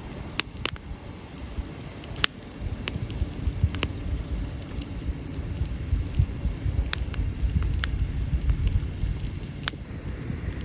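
Wood campfire burning: about ten sharp, irregular pops and crackles from the burning wood over a steady low rumble.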